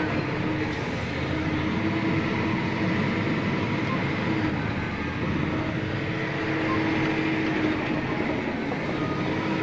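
The 9560 tractor's diesel engine running steadily, heard from inside the cab over the hum of the cab fan, with an even engine tone that fades and returns a few times.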